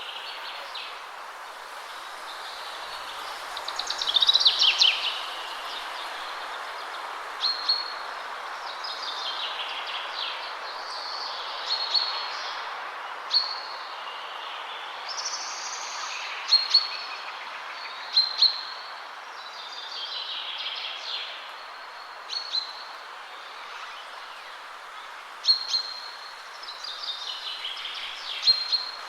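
Steady rush of wind through trees, with songbirds singing over it: repeated descending song phrases every few seconds and short high chirps in between.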